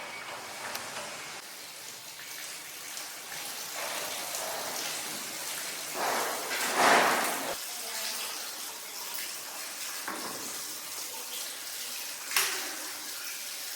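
Stone being worked wet on a lapidary grinding or polishing machine: a steady, watery hiss that swells louder about halfway through, with a few light clicks.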